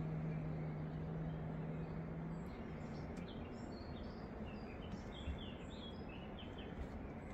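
Small birds chirping in the background, a run of short quick chirps from about three seconds in. A steady low hum sounds underneath at first and stops about halfway through.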